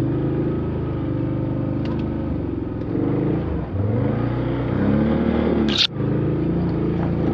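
Off-road vehicle engine running under load, revving up for a couple of seconds in the middle, with a sharp knock and a momentary dip near six seconds in before it settles back to a steady run.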